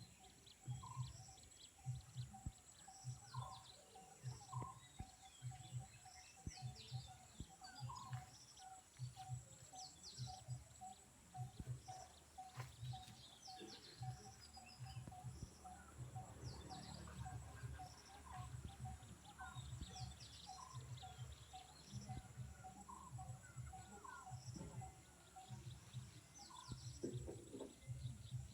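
Birds chirping and calling repeatedly, with a faint low pulsing that repeats about once or twice a second underneath.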